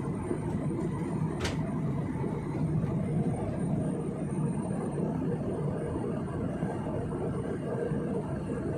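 Steady engine and air noise inside an airliner cabin, with a brief click about one and a half seconds in.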